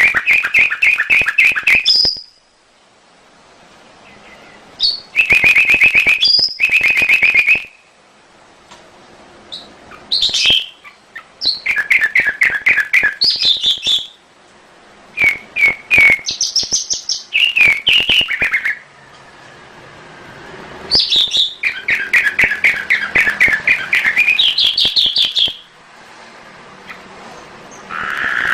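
Domestic canary singing: a string of song phrases, each a rapid trill of repeated notes lasting a second or two, some lower and some higher-pitched, with short pauses between them.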